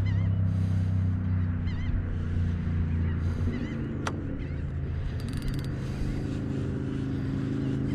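A steady low drone, like a distant motor, with wavy bird-like calls above it early on and a sharp click about four seconds in.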